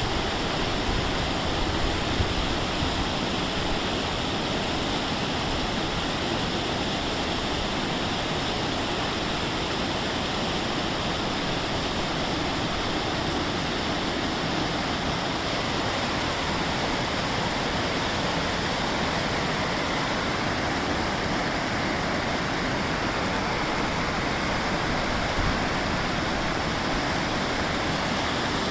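Steady rushing water, an even unbroken roar like a fast stream or waterfall.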